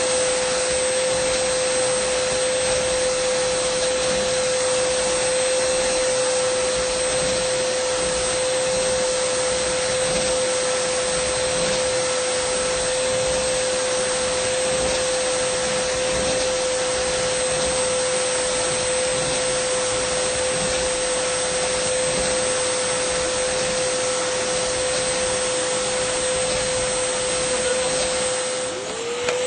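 Dyson vacuum cleaner running continuously: a steady whine over rushing airflow, with a brief dip near the end.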